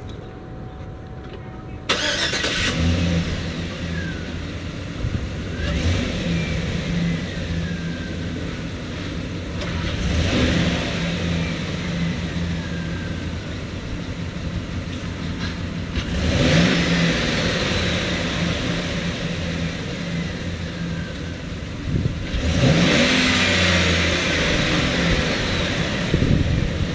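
GMC Savana 2500 van engine cranking and catching about two seconds in, then idling. It is revved four times, and each rev falls back to idle.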